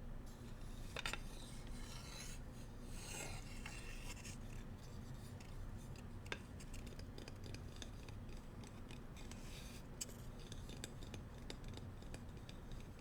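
Bamboo cooking utensils being rubbed and scratched close to the microphone, a rasping scrape with scattered light clicks and one longer scrape about three seconds in.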